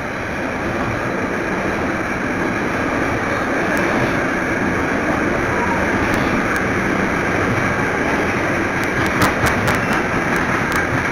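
Container freight train rolling past: a steady loud rumble of the wagons' wheels on the rails, with a quick run of sharp clicks near the end.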